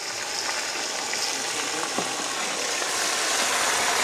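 Chicken pieces sizzling in hot oil: a steady hissing that grows gradually louder, with a few faint clicks.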